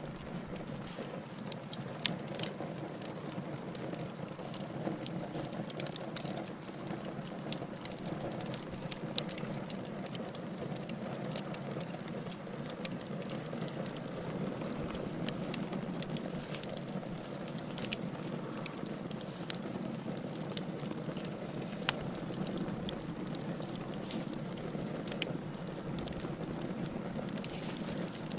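Wood fire burning in a fireplace: a steady low rush with irregular crackles and snaps, and a few louder pops.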